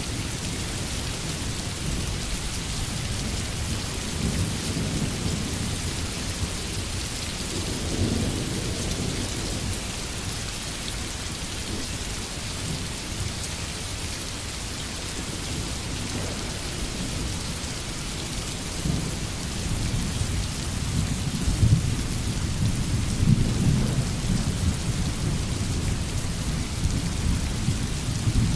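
Steady rain hissing down, with thunder rumbling low beneath it: a rumble swells and fades in the first third, and a longer, louder roll of thunder builds in the second half.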